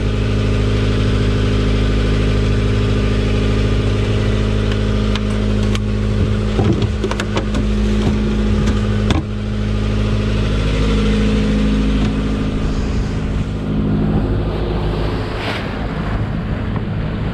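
A sailboat's inboard engine running steadily at a constant speed, with a few knocks partway through. The engine tone weakens in the last few seconds, leaving wind and water noise.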